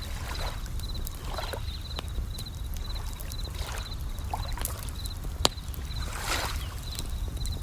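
Bell crickets (suzumushi) chirping in short, high, evenly repeated trills over a campfire's crackle, with sharp pops, the loudest about five and a half seconds in. Underneath, a low rumble of waves with soft swishes of water.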